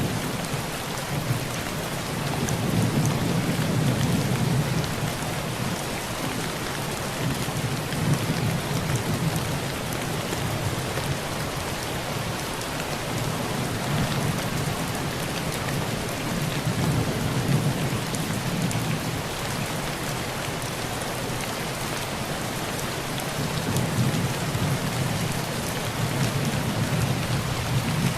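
Heavy rain pelting a tin roof in a steady hiss, with low thunder rolling in and fading several times: about two seconds in, around eight seconds, around seventeen seconds, and again near the end.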